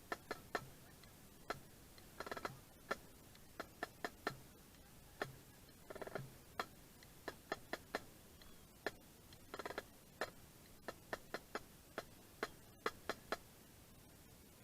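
Quiet, irregular sharp taps and clicks, a few a second, with three short rattling flurries of quick taps spread through.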